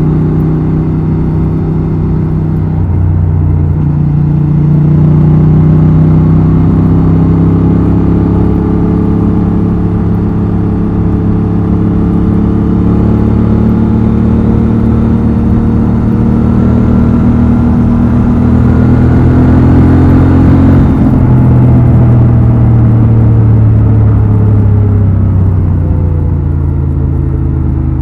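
Honda Transalp XL750's 755 cc parallel-twin engine and exhaust pulling under way, its pitch climbing slowly. The pitch changes abruptly about three-quarters of the way through, then falls away toward the end.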